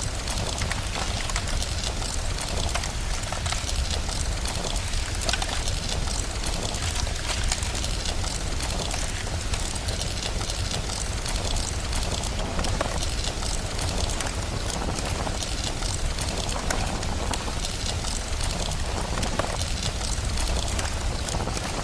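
Steady rain hissing with a wood fire crackling over it: an even wash of noise dotted with frequent sharp pops.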